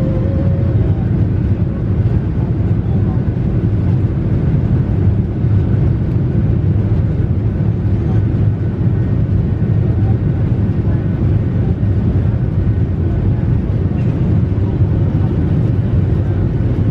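Airliner cabin noise: a steady, loud, low rumble of engines and rushing air heard from inside the cabin during the flight.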